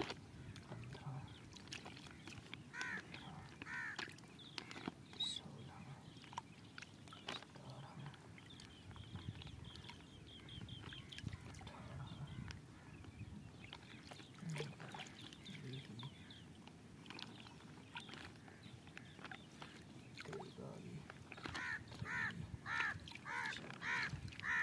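Birds calling: a couple of harsh calls a few seconds in and a quick run of them near the end, with a string of high repeated notes around the middle. Light splashes and clicks of water from hands moving in a plastic bag held in a pond.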